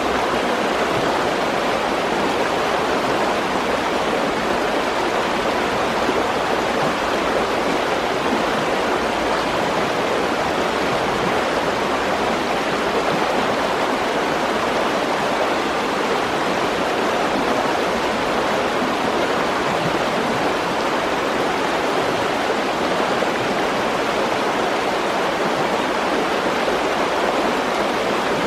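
Mountain stream rushing over rocks: a loud, steady roar of water that does not change.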